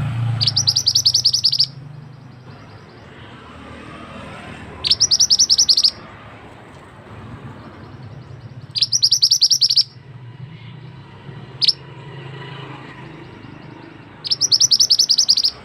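A mantenan songbird singing four bursts of rapidly repeated high, sharp notes, each about a second long and a few seconds apart, with one short single note between the third and fourth. A steady low hum of background noise runs underneath.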